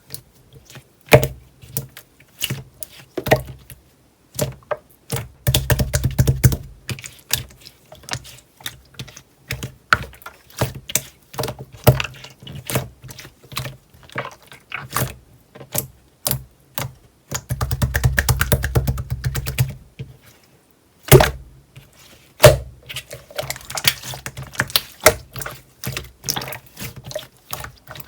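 Clear slime being squished and poked by hand: many sharp, wet clicks and pops, thickening twice into a couple of seconds of fast squishing.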